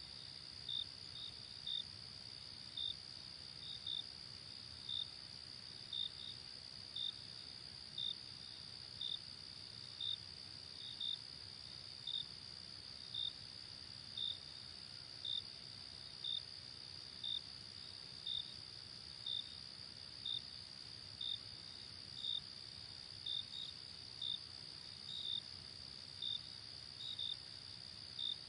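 Night insects: a steady high trill with a louder chirp repeating about once a second.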